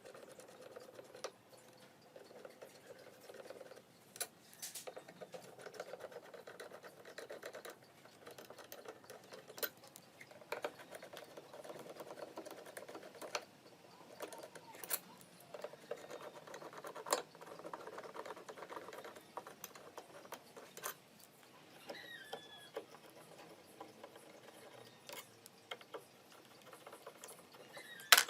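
Hand work on a children's ride-on toy car: scattered clicks and taps with short spells of scraping or rubbing every few seconds, and a sharp click near the end.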